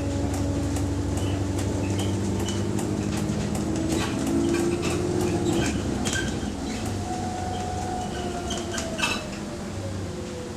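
Cabin sound of Arriva London double-decker bus T212 under way: its diesel engine drones, rising in pitch a few seconds in and falling away later, while interior fittings rattle and click sharply and irregularly, one louder click late on. The title describes this bus as having a clicking sound that moves with engine revs.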